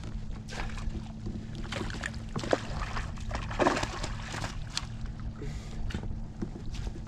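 Water sloshing and lightly splashing around a kayak, with scattered small knocks and splashes and a faint steady low hum underneath.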